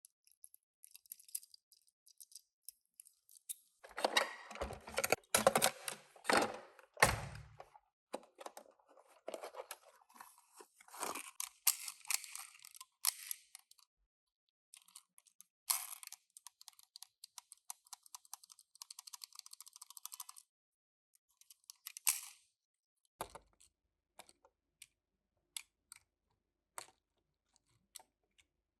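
Hands handling a small cardboard toy box and a die-cast minicar: rustling and crinkling, a few sharp knocks, a few seconds of steady scraping, then scattered light clicks.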